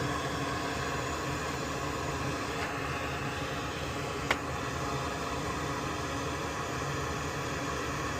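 A fan-like steady hiss runs throughout, with one sharp click about four seconds in.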